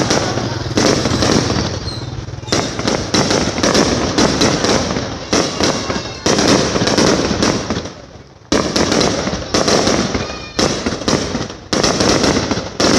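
Aerial fireworks bursting in quick succession: a dense run of sharp bangs, each trailing off in echo and crackle, with a short lull about eight seconds in.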